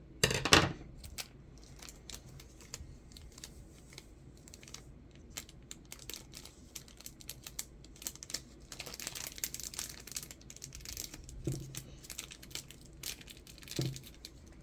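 Plastic crinkling and rustling with scattered clicks and taps as small containers and packaging are handled. There is a loud rustle right at the start and a busier stretch of rustling past the middle.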